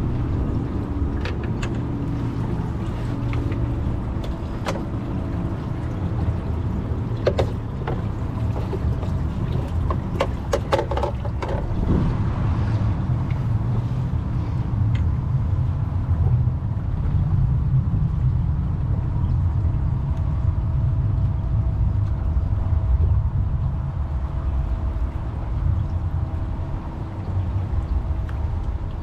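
Steady low rumble out on the water, with a few sharp clicks and knocks around the middle.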